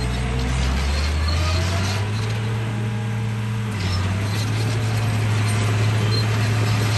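Radio-controlled bulldozer running: a steady low drone from its drive that steps up in pitch about a second in and again near four seconds.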